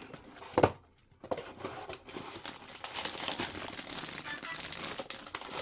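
Plastic bags of model-kit parts crinkling continuously as they are handled and unpacked, after a single sharp knock about half a second in.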